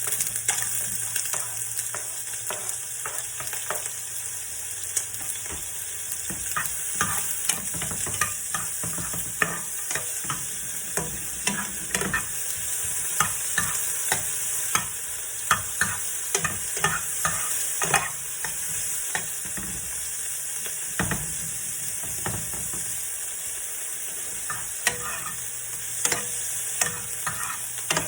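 Onion frying in hot oil in a pan, a steady sizzle, with frequent light clicks and scrapes of a utensil stirring it.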